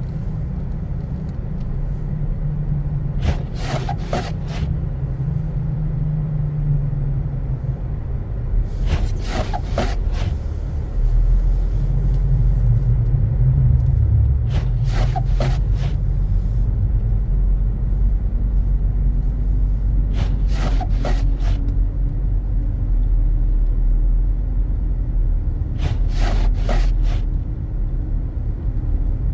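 Steady low rumble of a car's engine and tyres on a snowy road, heard inside the car while driving. Every five to six seconds a short burst of scraping clicks, typical of windshield wipers on an intermittent setting sweeping snow off the glass.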